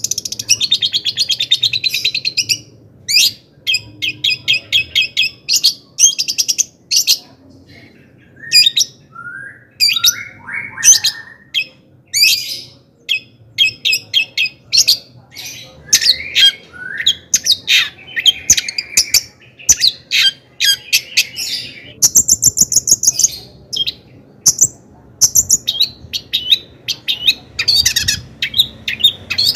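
Long-tailed shrike (cendet) singing a loud, varied song: quick high chattering trills and repeated notes in short bursts with brief gaps, and a few lower slurred notes about ten seconds in.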